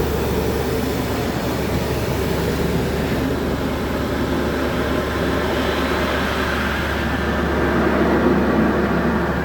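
Christ Varius automatic car wash running: a steady mechanical drone and noise over a low hum, growing a little louder about eight seconds in.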